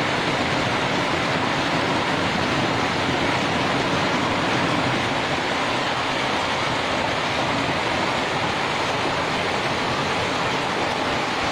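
Hailstorm: hail falling heavily, a dense, steady noise without letup.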